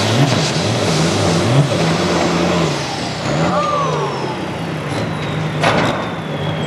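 Farm stock pulling tractor's diesel engine running loudly, its pitch rising and falling in the first half, then holding a steady drone. A high whistle falls slowly in pitch throughout, and there is one sharp crack near the end.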